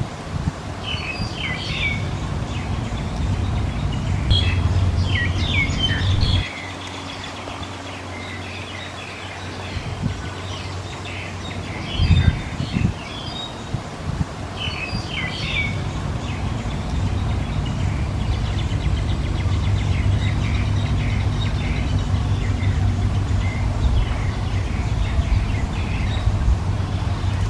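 Small birds chirping in short, quick clusters of high notes, several times over, with a low steady rumble underneath that fades for a while in the middle and then comes back.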